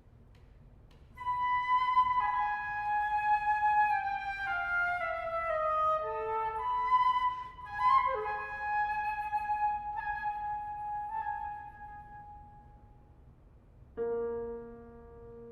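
Concert flute playing a slow solo phrase that steps mostly downward, with a sharp accented note about halfway through and a long held note that fades away. Another instrument, likely the piano, enters with a low chord near the end.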